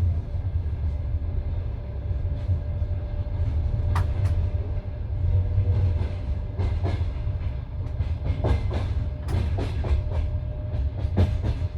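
Passenger train wheels rumbling on the track, heard from inside the carriage, with irregular sharp clacks of the wheels over rail joints that come more often in the second half.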